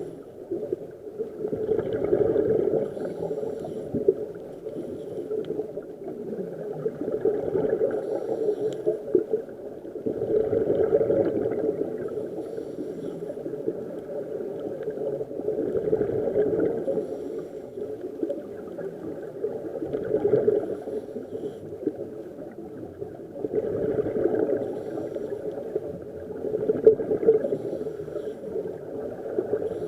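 Scuba diver breathing through a regulator underwater, the exhaled air bubbling and gurgling in swells every four to five seconds.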